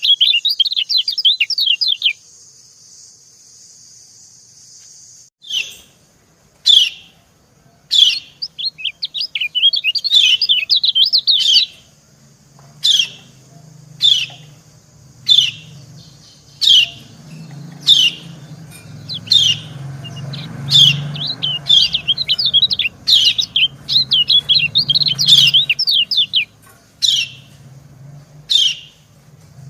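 Yellow white-eyes calling: short sharp single 'ciak' chips about once a second, the female's call, alternating with fast high twittering runs of the male's song. There is a pause of a few seconds after the opening run, and a faint steady hiss underneath.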